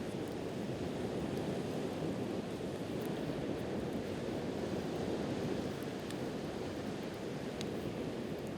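Steady wash of sea surf and wind, with a few faint crackles from a wood campfire.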